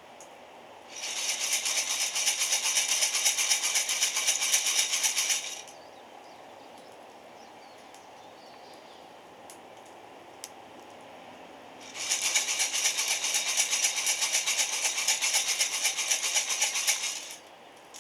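Coffee beans rattling inside a roaster held over a wood fire, in two bouts of dense, rapid rattling of about four to five seconds each, with a quiet pause between them.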